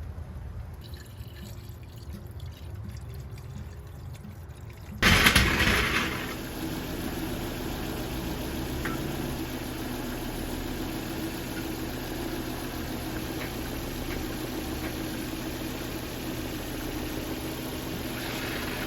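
2000 Volvo V70's five-cylinder engine starting about five seconds in, loud at first, then settling to a steady idle.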